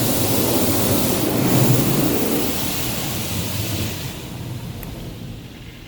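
Ryko Radius touchless car wash spraying water and foam onto the vehicle, heard from inside the cabin as a steady hiss over a low rumble. It fades over the last couple of seconds as the spray moves off.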